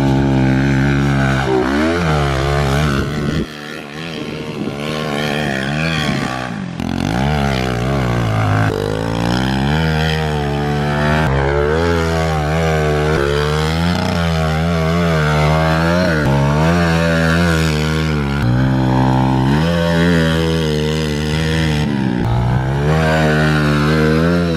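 Pit bike engine revving hard, its pitch climbing and dropping over and over as the throttle is opened and closed.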